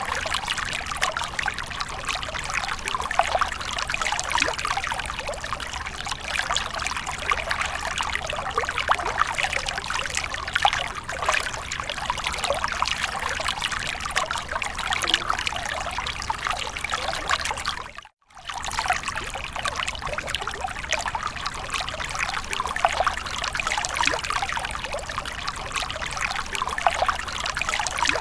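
Water splashing and trickling steadily, a dense crackle of small splashes. It cuts out for a moment about 18 seconds in, then carries on.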